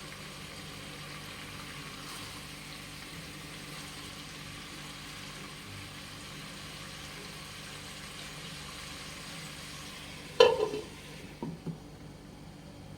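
Marinated chicken pieces sizzling steadily as they pan-fry. About ten and a half seconds in there is a sharp knock, then a couple of lighter knocks, and after them the sizzle is fainter.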